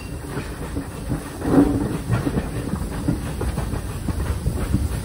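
Steam train hauled by a pannier tank locomotive running on the line: a steady rumble with the clatter of wheels over the rails, and a louder surge about one and a half seconds in.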